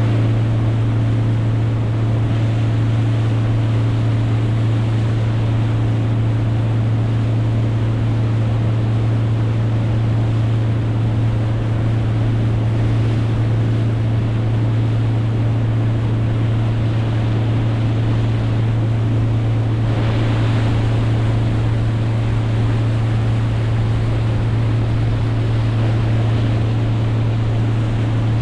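Boat motor running at a steady speed: a constant low drone over wind and water noise.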